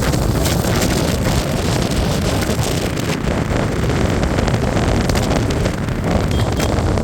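Steady wind noise buffeting the microphone of a moving motorcycle, with rumbling road and engine noise beneath it.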